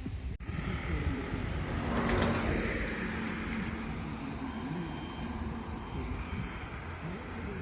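A motor vehicle passing by, swelling to its loudest about two seconds in and then slowly fading, over a steady low rumble.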